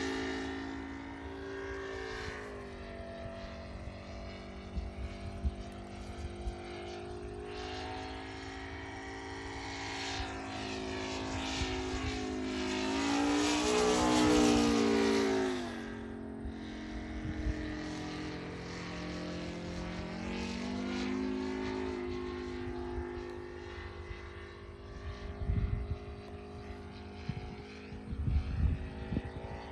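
ASP 400 radial glow engine of an RC Yak 55 in flight, its pitch and loudness changing as the plane manoeuvres. About 13 to 15 seconds in it passes close and gets loudest, then its pitch drops as it flies away. Low thumps of wind on the microphone near the end.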